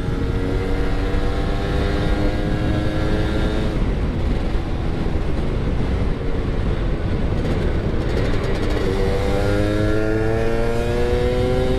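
Yamaha F1ZR 110cc two-stroke single-cylinder engine pulling the motorcycle along on a ride. The engine holds a steady note at first and is partly masked by a rushing noise mid-way, then its pitch climbs steadily over the last few seconds as it accelerates.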